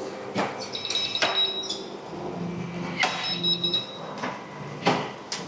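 Counter clatter in a small shop: sharp clicks and knocks, with two short runs of high electronic beeps, about a second in and again about three seconds in.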